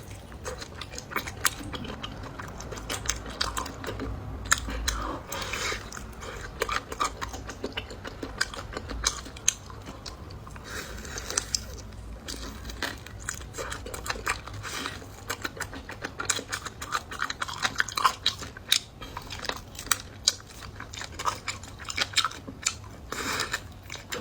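A person eating close to the microphone: a continuous run of chewing, biting and wet mouth clicks, with occasional sharper crunches.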